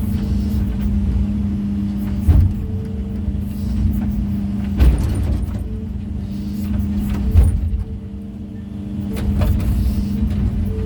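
Excavator's diesel engine running steadily under load, with three sharp knocks of stone against stone or the bucket as rock is worked into place. The engine eases off briefly past the middle and then picks up again.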